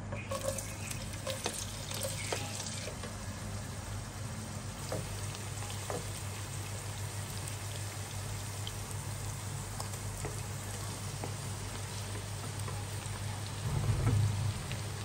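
Sliced onions sizzling and crackling in hot oil in a pan, with many small pops over a steady low hum. About fourteen seconds in there is a louder low thud as chopped tomatoes are tipped onto the frying onions.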